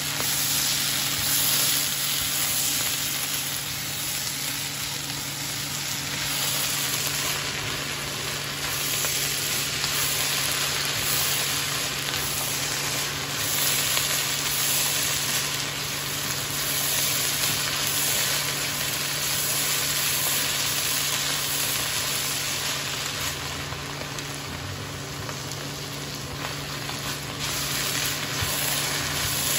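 Shredded bamboo shoots sizzling in a hot frying pan while being stirred and tossed with a wooden spatula: a steady frying hiss that swells and eases a little as the shoots are turned.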